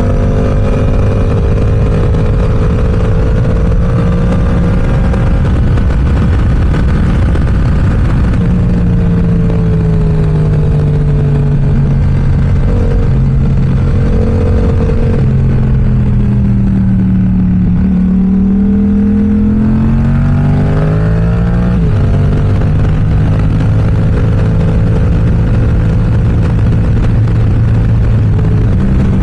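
Yamaha R7's parallel-twin engine through an M4 aftermarket exhaust while riding: the engine note holds and steps in pitch with gear changes. It drops away a little past halfway, then revs up quickly through the gears and settles into a steady cruise, over a constant rush of wind noise.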